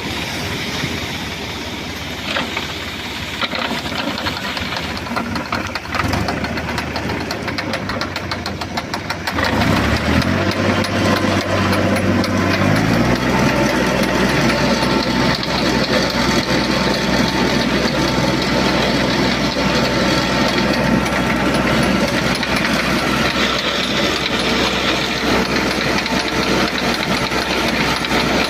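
Tractor engine running, then speeding up about ten seconds in and holding a steady, louder, higher speed, as when it is hauling in a seine net.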